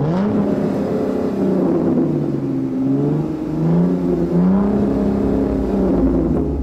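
Lamborghini Huracán STO's V10 engine revving as the car drives. Its pitch climbs at the start, sinks, then rises and falls again.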